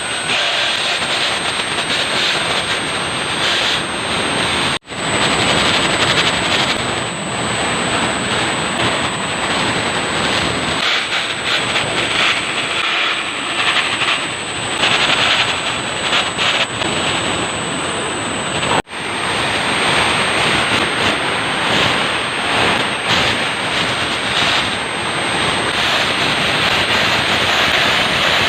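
Electric core drill boring through a concrete floor slab: the motor runs steadily under load with a thin high whine over the grinding of the bit in the concrete, broken by two brief cut-outs.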